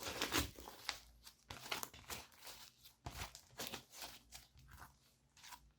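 Slime being squished and kneaded by hand, making irregular sticky crackles, clicks and pops.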